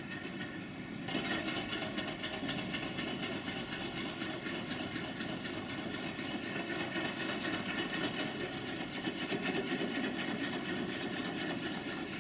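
Loaded freight wagons rolling along the track, a steady rail noise with ringing tones that gets louder about a second in.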